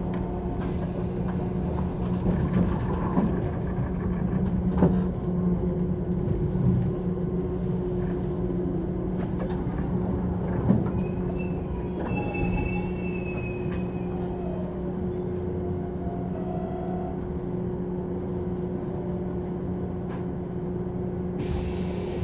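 185 series electric train running, heard from inside the passenger car: a steady low rumble of wheels on rail with a constant electric hum and scattered rail-joint clicks. A brief high wheel squeal comes about twelve seconds in.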